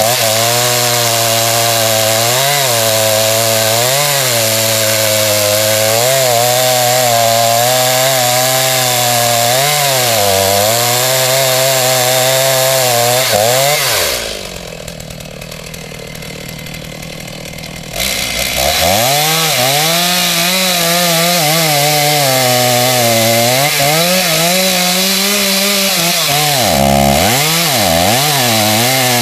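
Chainsaw cutting into the trunk of a large pine, running at high speed with its pitch repeatedly dipping under load and recovering. About halfway through it drops to a lower idle for about four seconds, then revs back up and keeps cutting.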